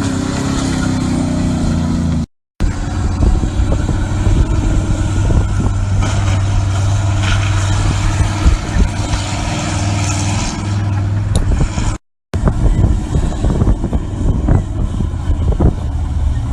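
Monster truck engine running steadily, with knocks and thumps over the last few seconds. The sound cuts out briefly twice.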